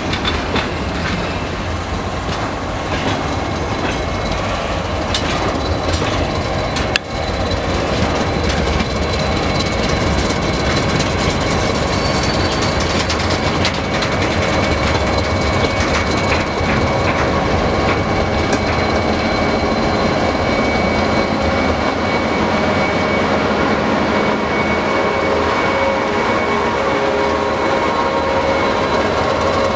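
Freight wagons rolling slowly past close by, their wheels clicking over the rail joints with some wheel squeal, as a TGM6A diesel-hydraulic shunting locomotive draws alongside; steady high tones join the rumble about a third of the way in.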